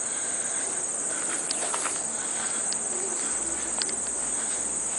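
A steady high-pitched hiss-like buzz that does not change, with a few faint ticks scattered through it.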